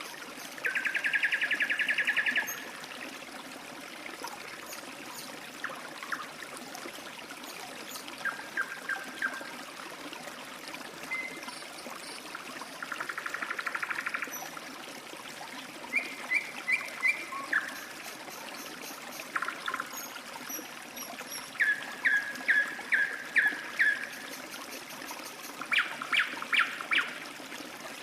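Water trickling steadily, like a small stream, with a bird calling over it. The bird gives fast trills lasting about two seconds near the start and again about halfway through, then runs of short repeated notes through the second half.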